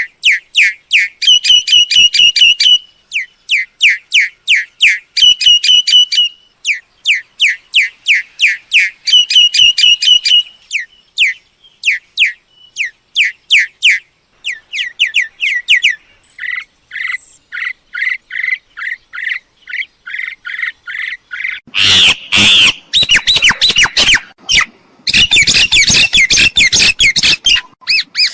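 Mynas calling: quick runs of sharp, pitched notes, several a second, in phrases with short gaps. About two-thirds of the way through the calls turn louder and harsher, into squawking.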